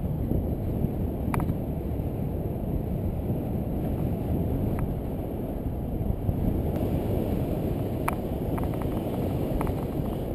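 Wind rushing over the camera microphone on a fast road-bike descent: a steady low rumble, with a few sharp clicks, most of them after about eight seconds in.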